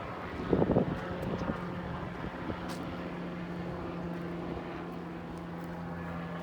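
Propeller airplane engine droning steadily, getting stronger in the second half. A short rustling thump about half a second in.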